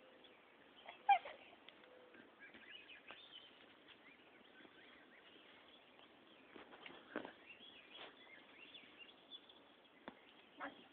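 Faint ambience with scattered short bird chirps and calls, and a sharper brief call about a second in.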